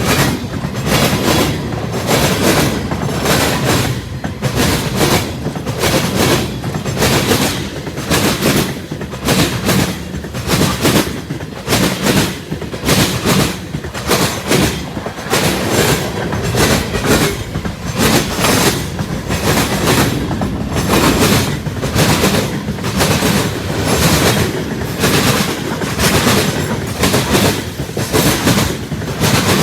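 Freight cars of a CSX freight train rolling past at speed, steel wheels clacking over rail joints in a quick, steady clickety-clack over a continuous rumble.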